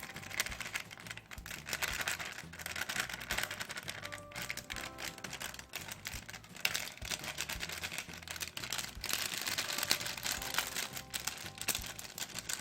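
Close-miked eating of kongguksu ramyun noodles: slurping and chewing, a dense run of wet, irregular clicks and smacks. Soft background music plays underneath.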